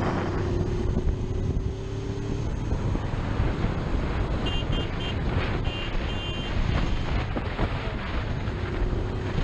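Motorcycle riding in traffic, engine and wind noise on a helmet camera's microphone. A steady two-note tone is held for about the first two seconds and briefly again near the end, and a string of short, high beeps comes in the middle.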